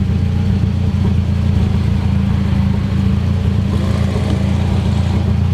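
Mitsubishi Lancer Evolution X's turbocharged 2.0-litre four-cylinder idling steadily through a custom exhaust, the engine already warm.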